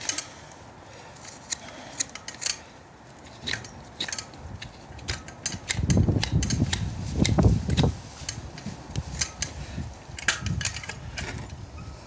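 Hoof-trimming tools clicking and scraping on a hoof in short sharp strokes, with low rumbling thumps for about two seconds in the middle.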